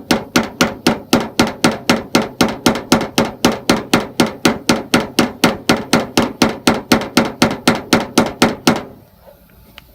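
Rapid, even hammer taps on a tap-down against the Dodge Ram's sheet-metal bedside, about four to five a second, stopping shortly before the end. This is paintless dent repair tapping down the high spot left by glue pulling and blending the panel flat.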